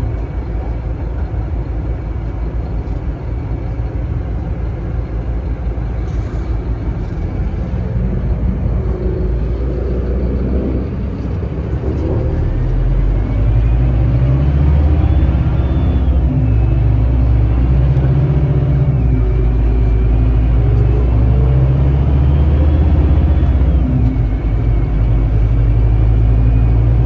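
Scania K310IB bus's five-cylinder diesel engine running, then pulling harder from about halfway through. A whine rises in pitch twice, dropping back between the two rises as the Opticruise gearbox shifts up.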